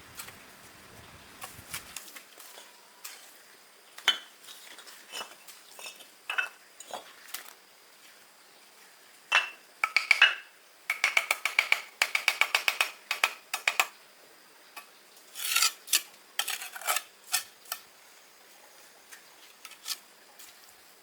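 Metal bricklaying trowel clinking and scraping against bricks and mortar, with a quick run of rapid ringing taps about halfway through.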